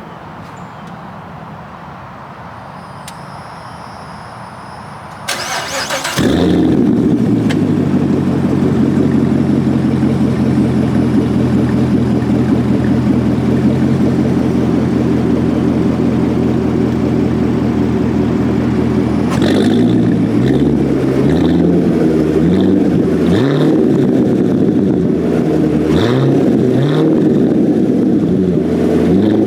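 Chevrolet C7 Corvette's 6.2-litre V8 cranked on the starter about five seconds in, catching within a second and settling into a steady fast idle. From about nineteen seconds in it is revved in a series of quick blips, the pitch rising and falling with each one.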